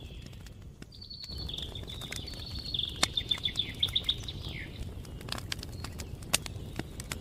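A songbird singing a quick series of repeated chirping notes that ends in a short falling trill, over a campfire crackling with scattered sharp pops.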